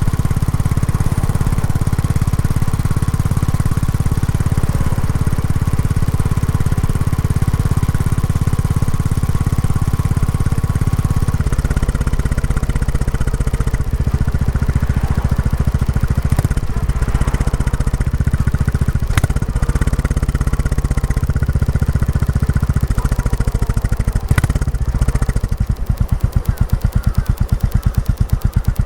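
Royal Enfield Classic 350's single-cylinder engine running through its stock exhaust while riding. It drops to lower revs about twelve seconds in, with a few sharp clicks after. Near the end it slows to an even, low thumping in which each exhaust beat is heard separately.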